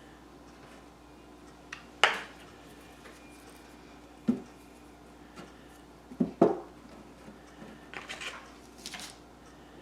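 Scattered knocks and light clatter of craft items being handled and set down on a work table: a sharp knock about two seconds in, another about four seconds in, a quick pair around six seconds, and lighter clatter near the end.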